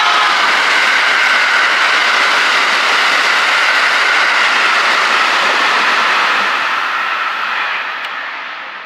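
Train running past close by at speed: a loud, steady rush that fades away over the last two seconds or so.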